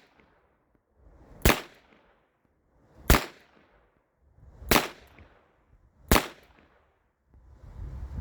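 Four shots from a New England Firearms Model R73 .32 H&R Magnum revolver, fired double action at an even pace about one and a half seconds apart.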